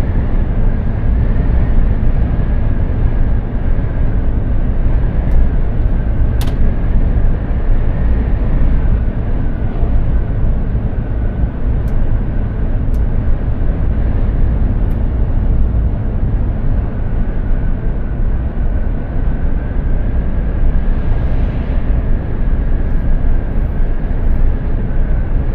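Mercedes-Benz Actros 2763 truck driving at a steady speed: a constant low engine and road rumble, with a faint steady high whine over it.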